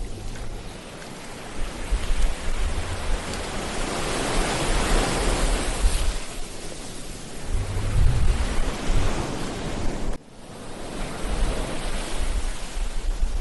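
Ocean waves breaking and washing up the beach, one swelling to a peak about a third of the way through and fading again, with wind rumbling on the microphone. The sound drops out abruptly for a moment about ten seconds in, then the surf builds again.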